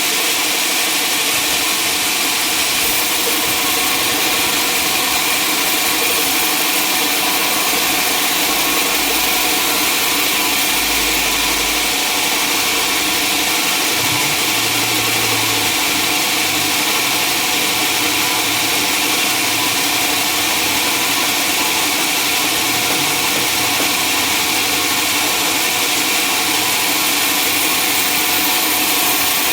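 Sawmill machinery running steadily: an even, unbroken mechanical drone with a strong hiss on top.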